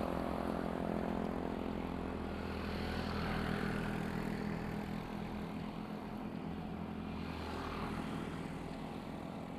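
Wind rushing over an action camera's microphone while riding a mountain bike along a road, with the steady hum of a motor vehicle's engine that fades over the first half.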